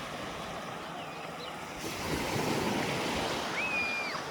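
Sea waves washing, with wind, growing louder about two seconds in; a short high whistle sounds near the end.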